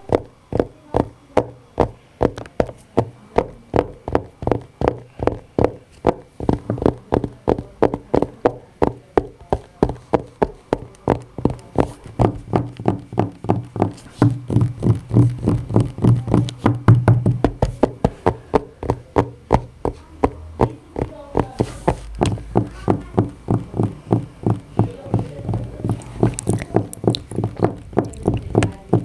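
A fast, even run of knocks, about three a second, over a low steady hum that swells in the middle.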